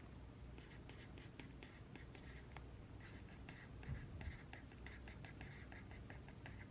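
Pen writing on paper: faint, quick, irregular scratching strokes. A soft low thump about four seconds in, like something set down on the desk.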